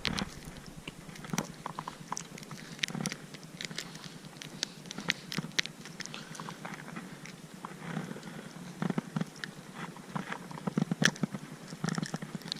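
Irregular light clicks and crackles of fishing gear and handling while a hooked bass is reeled in and landed.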